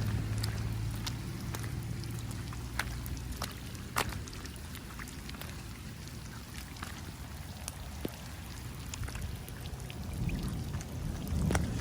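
Rain falling, with many single drops ticking sharply close by over a steady hiss. A low rumble swells near the end.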